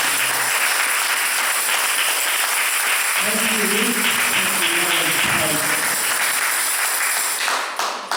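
Congregation applauding after a song, with a voice heard over the clapping in the middle; the applause dies away near the end.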